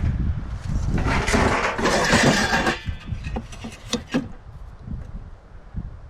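Wind buffeting the microphone with a low rumble. About a second in comes a loud rush of noise lasting nearly two seconds, then a few sharp knocks.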